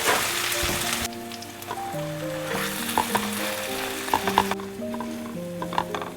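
Food sizzling in hot oil in a frying pan. The sizzle cuts off about a second in and comes back for about two seconds in the middle, with a few light clicks, over gentle background music.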